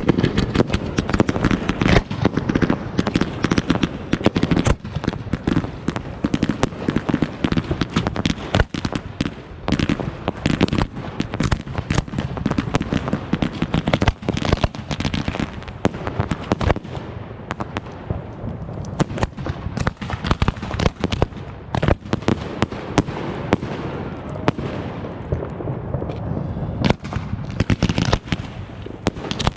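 Many fireworks and firecrackers going off in rapid, overlapping bangs and crackles. The bangs thin out a little past the middle and pick up again near the end.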